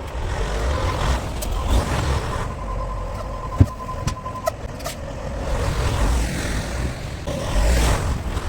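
Vehicle driving, most likely the truck: a steady low engine and road rumble. A steady high tone sounds for a couple of seconds about a second in, and there is a sharp knock about halfway through.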